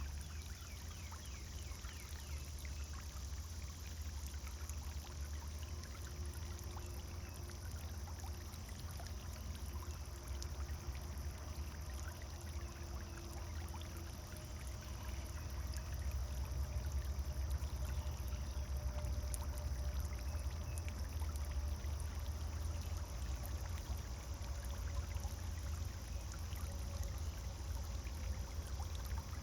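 Pond fountain splashing and trickling steadily, with a deep rumble underneath; it gets a little louder about halfway through.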